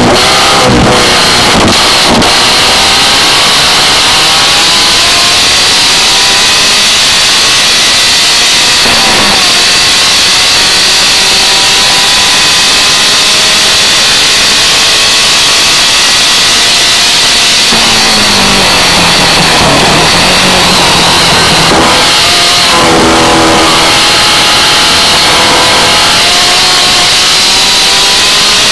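Birkin S3 sports car's engine pulling hard through long rising runs, with sharp drops in pitch about nine seconds in, near eighteen seconds as it comes off the throttle and slows, and again around twenty-two seconds before climbing once more. A steady rush of wind noise runs under the engine.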